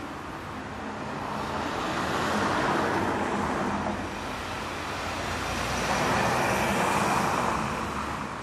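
City street traffic: two vehicles pass close by one after the other, their tyre and engine noise swelling and fading, over a steady hum of traffic.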